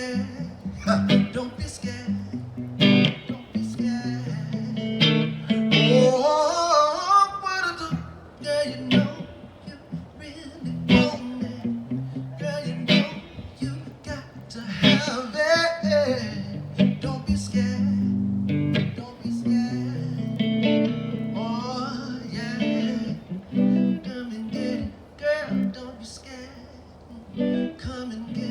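Live acoustic guitar strumming chords, with a singer's wavering melody over it at times.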